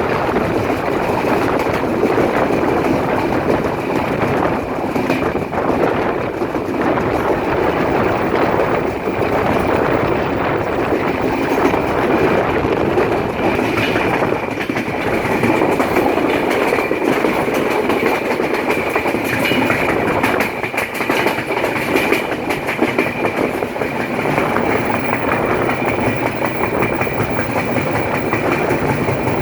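Bangladesh Railway train running on the track, steel wheels clattering over the rails in a continuous rumble with a steady high-pitched ring over it.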